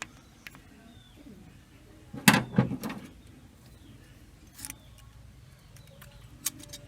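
Hand tools knocking and clicking on the valve gear of a Toyota 4K engine during a valve clearance adjustment: a quick cluster of three sharp knocks a little over two seconds in, then lighter single clicks. Birds call faintly in the background.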